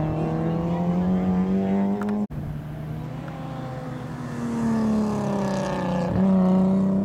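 Car engines lapping a race circuit: one engine pulls hard with its note rising steadily, then about two seconds in the sound cuts abruptly to another car whose engine note sinks as it runs through the corner, then jumps and climbs again as it accelerates near the end.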